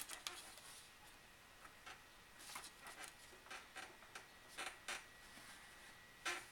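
Pencil drawing on paper: a run of short, scratchy strokes with a few light clicks in between, the strongest stroke near the end.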